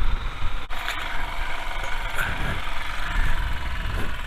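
Royal Enfield Himalayan single-cylinder engine running steadily as the motorcycle is ridden, with a heavy low rumble and a steady rush of road and wind noise.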